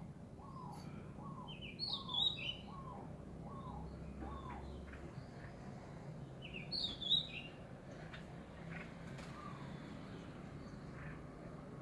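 Garden birds calling: a run of short, repeated falling notes, about two a second, for the first few seconds, and two louder, higher chirping phrases about two seconds in and again near seven seconds, over a steady low hum.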